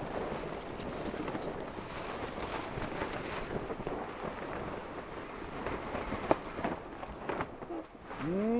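Wind and water rushing past a Tornado racing catamaran under sail, a steady noisy hiss, with a few sharp knocks from the boat about two-thirds of the way through. Near the end a man's drawn-out call rises in pitch.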